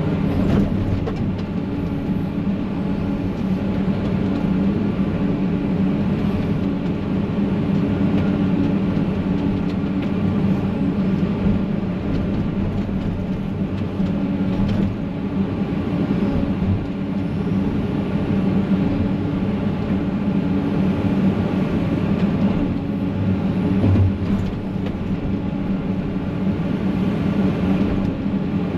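Excavator's diesel engine running steadily under work, with a steady low drone and a few light knocks.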